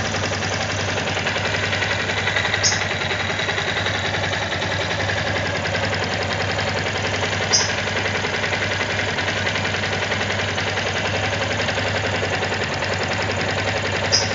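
Yamaha XTZ 250 Ténéré single-cylinder engine idling steadily, with a constant light rattle and tapping, the "batidinhas" its owner finds annoying on a new bike and wants checked as normal or not. Three brief sharp high sounds come at about 2.5, 7.5 and 14 seconds in.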